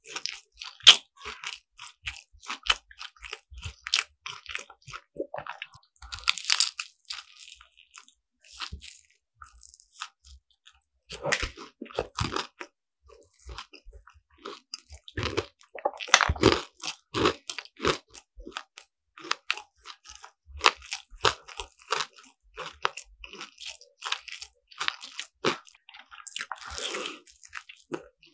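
Close-up crunching and chewing of croffles: crisp croissant-waffle pastry crackling sharply as it is bitten and chewed, in bursts with short lulls between mouthfuls.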